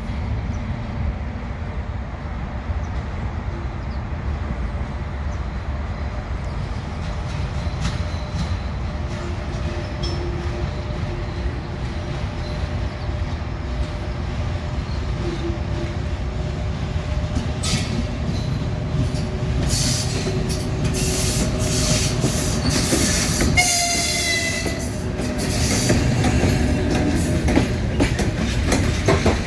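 EP1 electric locomotive with a passenger train pulling away: a steady low rumble of the locomotive and train throughout. Sharp wheel clicks come thicker in the second half, and a short horn blast sounds about two-thirds of the way through.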